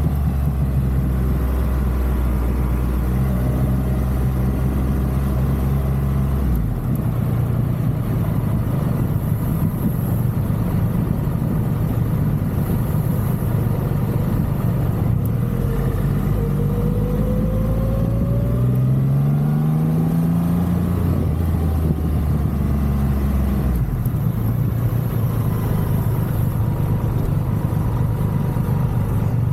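Triumph Rocket 3 motorcycle's inline-three engine at low speed in town: running steadily at first, then rising in pitch as it accelerates about two-thirds of the way through, then settling again.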